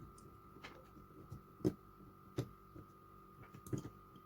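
Light clicks and taps of small metal carburettor parts being handled and set in place, a few separate knocks about a second apart, over a faint steady hum.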